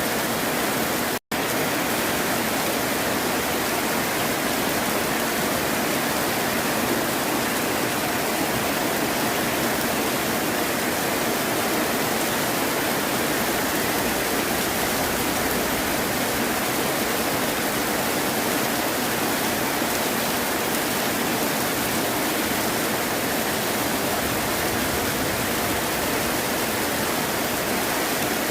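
Heavy rain falling steadily as a dense, even hiss, which cuts out for an instant about a second in.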